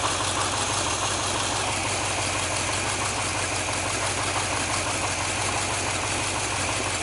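350 cubic inch V8 truck engine idling steadily, running again after water had rusted its piston rings to the cylinder walls.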